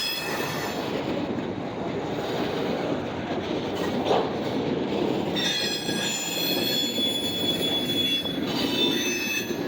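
Freight cars rolling past with a steady rumble of wheels on rail. From about halfway through, the wheel flanges squeal in several high, steady tones for about three seconds, typical of wheels rubbing the rail through a curve.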